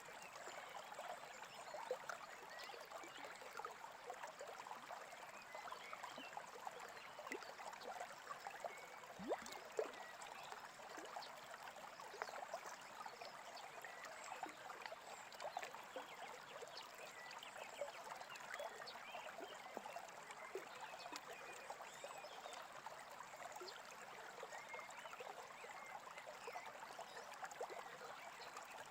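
Small brook babbling steadily and faintly, water trickling over stones.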